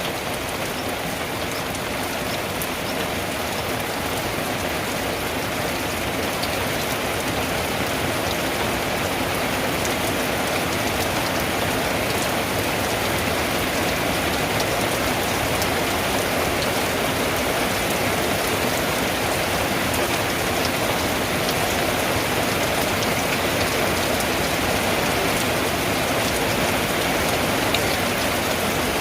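Rain falling steadily on a tin roof: a dense hiss with many sharp drop ticks, getting a little heavier over the first ten seconds or so.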